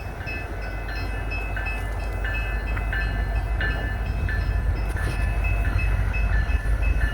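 Diesel locomotives of a loaded coal train running, a deep low rumble that grows steadily louder. Over it, a set of high steady tones switches on and off every half second or so.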